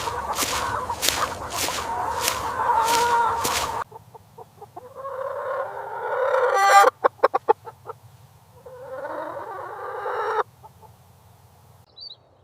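Chickens clucking and calling. A dense, busy flock sound for the first four seconds gives way to single calls, with a quick run of short clucks about seven seconds in, and the sound cuts off abruptly about ten seconds in.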